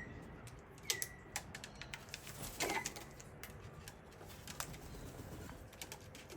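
A flock of long-billed corellas and cockatoos: scattered light clicks and taps, with a short call about a second in and another near the three-second mark.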